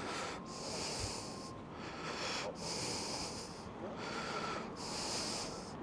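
A person breathing close to the microphone: about five even, hissing breaths, one roughly every second, over a steady low wind rumble.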